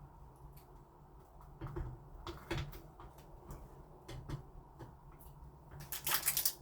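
Scattered light clicks and taps of the smart lock's plastic and metal parts being handled and pushed into place on the door, with a louder cluster of clatter near the end, over a faint steady low hum.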